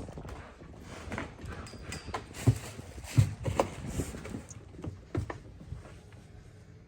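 Irregular footsteps and knocks on a hard floor as gear is carried, the two loudest thuds about two and a half and three seconds in.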